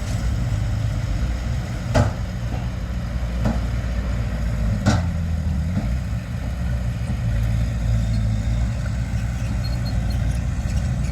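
Heavy diesel earthmoving machinery running steadily at low revs, with three sharp knocks about two, three and a half and five seconds in.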